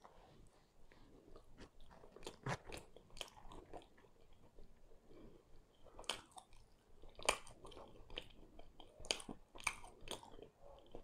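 A person chewing a mouthful of chicken pan pizza close to the microphone, with irregular sharp mouth clicks and soft crunches. The loudest clicks come in the second half.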